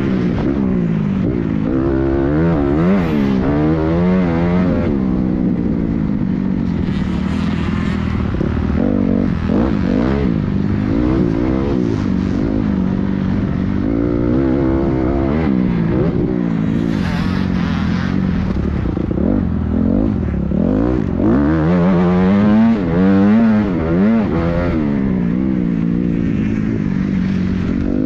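Motocross dirt bike engine being ridden hard, revving up and dropping back over and over as the rider accelerates and shuts off around the track.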